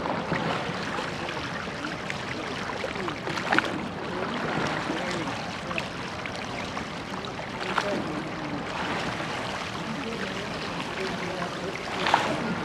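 Water rushing and splashing along the hull of a rowed church boat. A sharper splash or knock comes about every four seconds with the oar strokes, and faint voices sit in the background.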